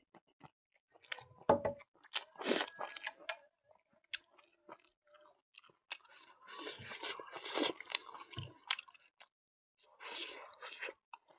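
A person chewing food close to the microphone, with crunchy bites coming in three bouts separated by short pauses.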